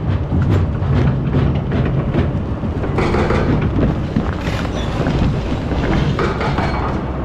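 Excavator's diesel engine running steadily, with repeated clanks through the first few seconds and a louder rushing noise from about three seconds in.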